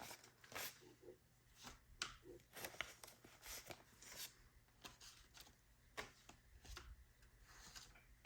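Faint rustling and scattered light taps of paper bills and envelopes being handled and sorted.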